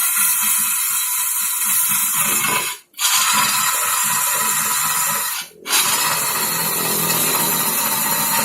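Wood lathe running while a turning tool cuts the spinning wood, giving a loud, continuous hissing scrape. The sound cuts out abruptly twice, about three seconds in and again midway.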